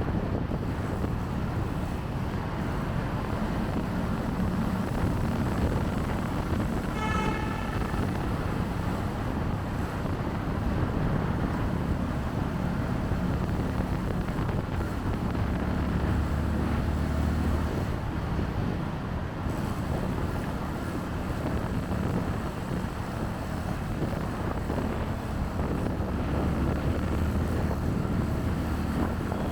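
Riding a motorcycle through city traffic: wind buffeting the microphone over the bike's engine and the surrounding traffic noise, with a short vehicle horn honk about seven seconds in.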